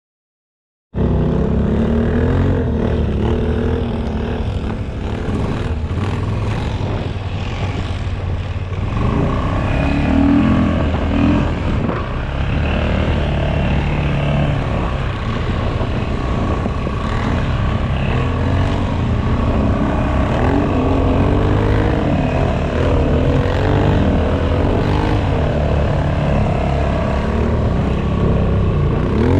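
An ATV engine is running and working, its pitch rising and falling as the throttle changes. It cuts in suddenly about a second in.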